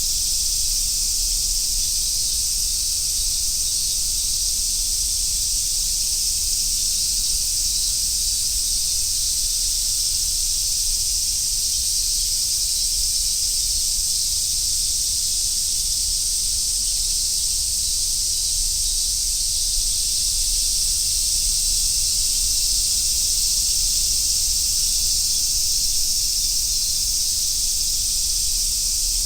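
Dense chorus of cicadas, including large brown cicadas (aburazemi), making a steady, unbroken high-pitched drone that does not change.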